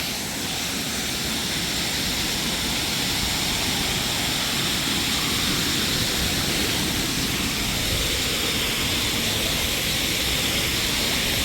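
Waterfall, its water rushing in a steady, even roar that swells slightly in the first couple of seconds and then holds.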